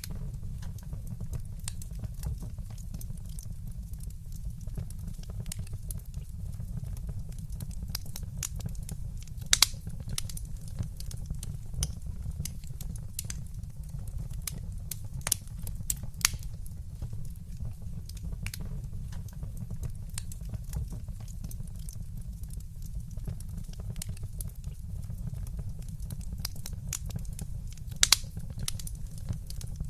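Wood fire crackling in a fireplace, with a steady low rumble of the flames and scattered sharp pops and snaps, a few louder ones standing out.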